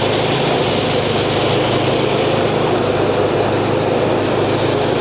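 Engine-driven rice thresher running steadily: an even engine hum under the continuous rush of the threshing drum.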